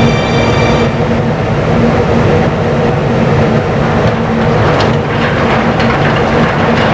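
A cargo ship's machinery running: a loud, steady mechanical rumble with a few sharp clanks near the end.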